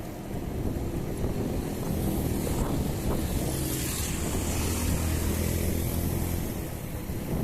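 Wind rushing over the microphone, with a motor vehicle engine rumbling; the engine grows louder in the middle and then fades.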